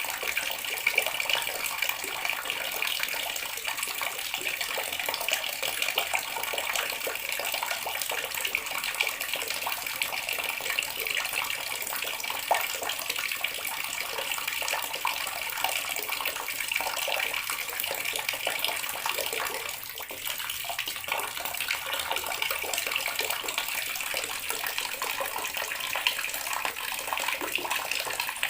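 Water running steadily from a tap and splashing, with a brief slight drop in level about two-thirds of the way through.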